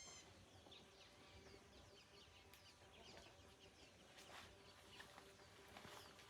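Faint, scattered chirps of small birds over a quiet outdoor background.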